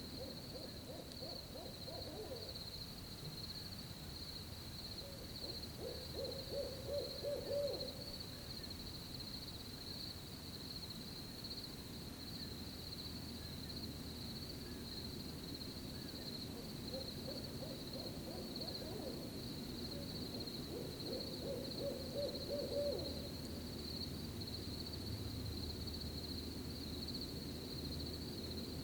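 An owl hooting in several short series of low hoots, over a steady high-pitched cricket trill that never stops.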